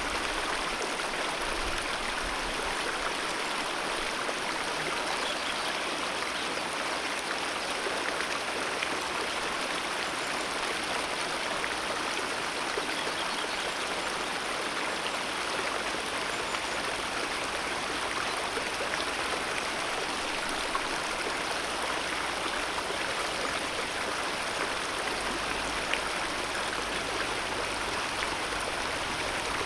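Alpine mountain river rushing over rocks: a steady, even rush of flowing water.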